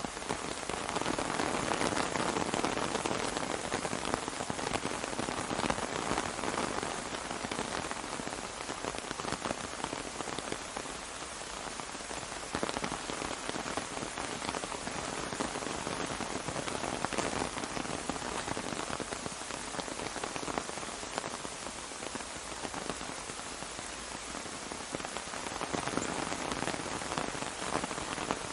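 Steady rain falling on an umbrella: a dense hiss of countless small drop hits. It swells a little louder about a second in and again near the end.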